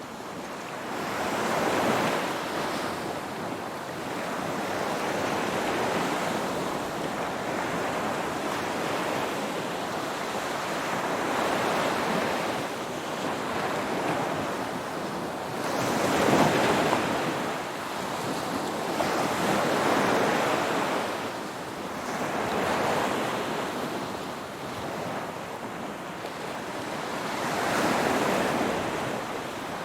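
Ocean waves breaking and washing on the shore, a continuous surf noise that swells and falls with each wave, about every three to four seconds, the strongest wave about halfway through.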